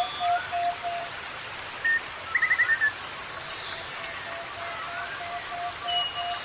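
Several birds calling over a steady hiss like rain or running water: runs of short, evenly repeated low notes, upward-sliding whistles, and a quick series of four or five chirps about two and a half seconds in.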